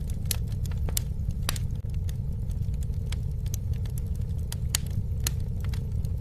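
Campfire burning: a steady low rumble of the flames with frequent sharp crackles and pops of burning wood, a few of them louder than the rest.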